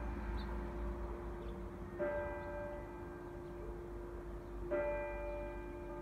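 Church bell tolling: two strikes about two and a half seconds apart, each ringing on and fading, over a steady low rumble.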